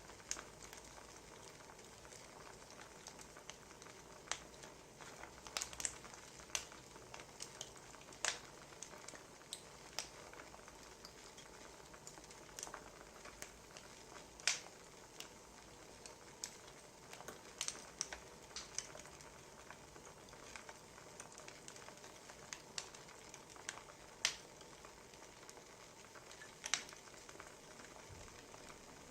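Wood fire crackling, with irregular sharp pops over a soft steady hiss.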